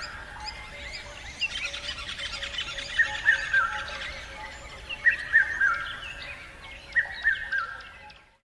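Birdsong: one bird gives a three-note call of short falling notes about every two seconds, over a continuous twittering of other small birds. It fades out near the end.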